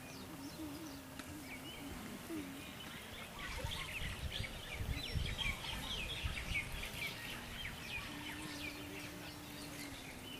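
Birds chirping: a quick, busy run of short calls, thickest through the middle, over outdoor background noise with low rumbles.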